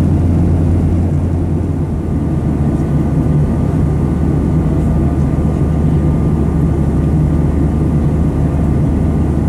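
Steady low drone inside a Boeing 737-800's cabin in flight: its CFM56-7B turbofan engines and the airflow over the fuselage, with a few faint steady tones above the drone.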